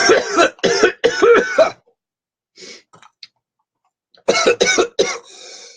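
A man coughing in harsh fits after a hit of cannabis smoke: a bout of several quick coughs, a pause of about two seconds, then another bout near the end.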